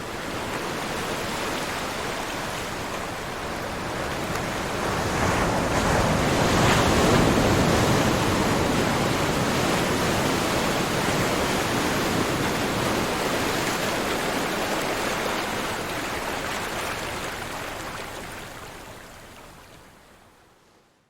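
Ocean surf: a wave swells to its loudest about six to eight seconds in, then washes on and slowly fades away near the end.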